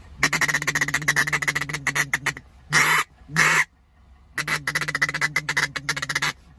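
Duck-call reed taken from a plush dog-toy duck, blown by mouth: a fast chattering run of notes, two separate quacks about two and a half seconds in, then another fast chattering run.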